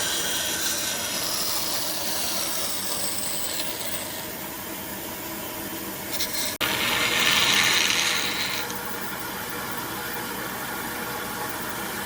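A tool working wood with a steady rasping rub. About six and a half seconds in there is a sharp break, then a louder, brighter stretch of about two seconds before it settles back.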